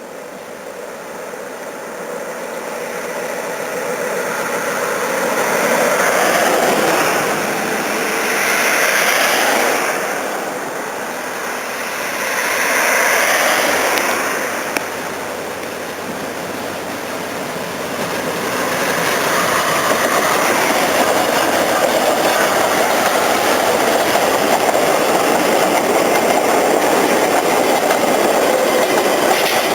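A steam-hauled train approaching. Its noise grows louder in swells, then it runs by as a steady loud rush of train noise.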